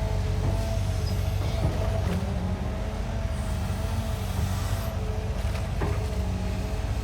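Diesel engine of heavy earthmoving machinery running steadily, with a wavering whine over the drone and a few short knocks.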